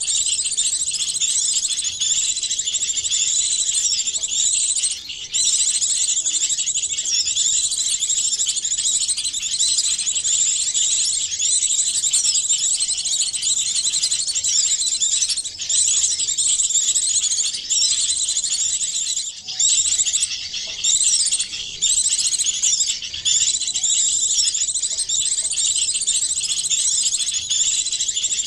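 Bird-lure recording: calls of many small songbirds layered into one continuous, high-pitched chorus of rapid chirps and trills, with a couple of brief breaks.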